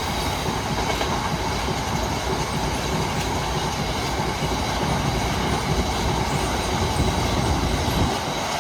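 Freight train wagons rolling past at close range, a steady rumble with the clatter of wheels over the rails; the low rumble drops away about eight seconds in as the end of the train passes.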